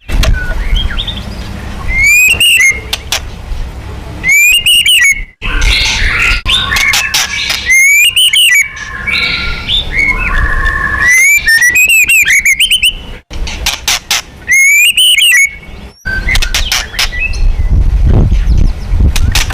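White-rumped shama (murai batu) singing in loud short phrases a couple of seconds apart, each a rising-and-falling whistle with a rattle of sharp clicks, with softer warbling in between. It is an agitated challenge song of the kind used to provoke contest shamas into singing.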